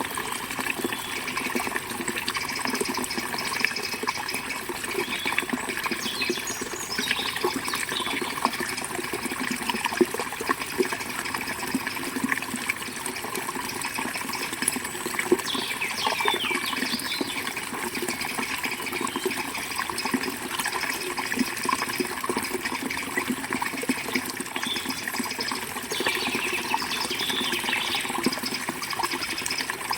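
A forest river flowing steadily, a continuous rush of water, with short bird chirps now and then above it.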